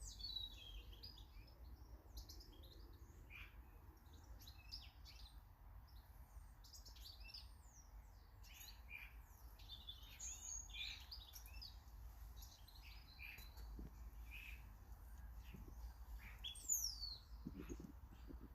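Small garden birds chirping and calling, many short high chirps overlapping throughout, with one sharp falling call near the end.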